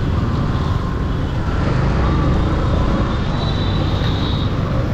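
Yamaha MT15 motorcycle on the move: a steady rush of wind and road noise over the camera, with the bike's single-cylinder engine running underneath.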